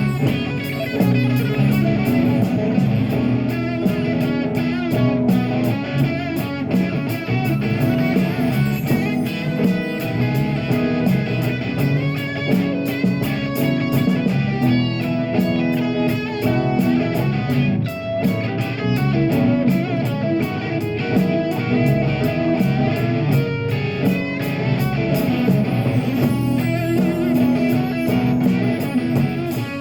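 Live rock band playing, with electric guitar out front over bass and a steady cymbal beat.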